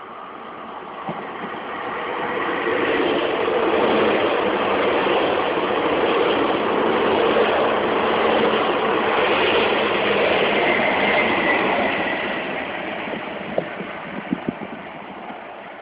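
SNCF train passing by on the line: the sound of its wheels and running gear on the rails swells, holds loud for several seconds, then fades away, with a few sharp clicks near the end.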